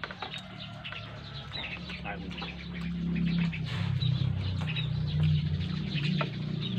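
Small birds chirping, with a low hum underneath that gets louder about three seconds in.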